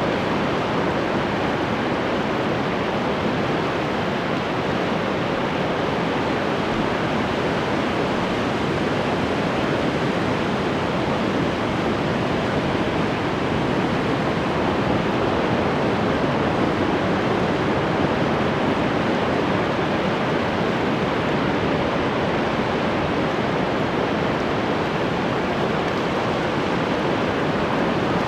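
Ocean surf: a steady, unbroken wash of breaking waves with no distinct swells.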